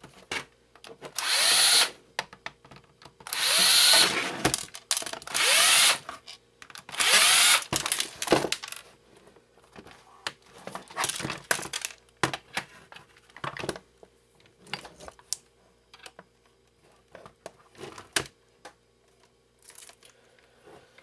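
A cordless power driver running in about four short bursts of one to two seconds each, its motor whine rising in pitch as it spins up, removing the screws from a plastic electronics case. After that come scattered small clicks and knocks of handling.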